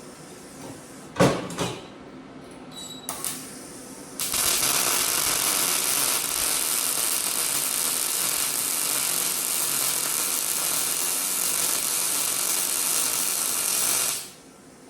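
Two sharp metal knocks, then a welder running a continuous bead on sheet metal: an even crackling hiss for about ten seconds that cuts off suddenly.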